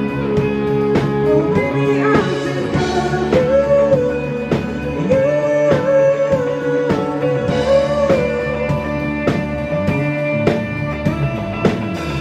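Live rock band playing an instrumental break: a lead melody with bending notes over sustained chords and a steady drum beat.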